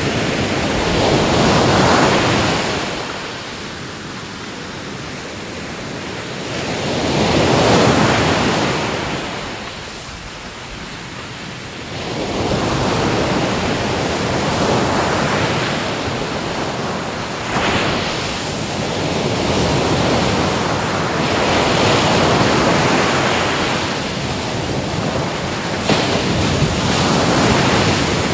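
Ocean waves breaking on a shore, swelling up loudly about two seconds in and again about eight seconds in, then running on as a more continuous wash of surf.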